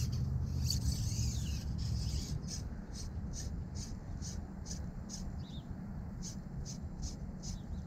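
An insect calling in an even rhythm of short high chirps, about two or three a second, over a steady low rumble of creek water or wind.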